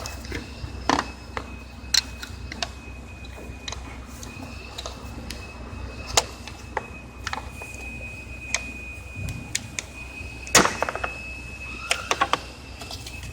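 Scattered metallic clicks and knocks of hand tools and engine parts being handled during work on a diesel engine's crankcase ventilation filter housing, the loudest knock about ten seconds in and a quick run of clicks near the end.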